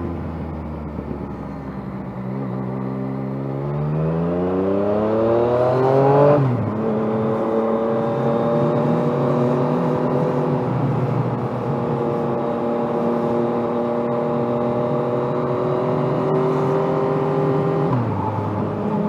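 Yamaha FZ-09's inline-three engine pulling through a gear with a rising pitch for a few seconds, shifting up about six seconds in, then cruising at a steady pitch, with another gear change near the end.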